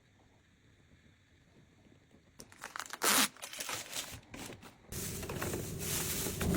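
Packaging being crinkled and torn open. It starts after about two seconds of near silence, gives a louder burst about three seconds in, and turns into continuous crinkling from about five seconds in.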